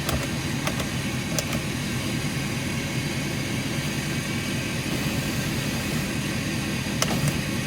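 Heavy-duty pickup truck's engine running steadily with a low rumble, heard from inside the cab, with a few light clicks.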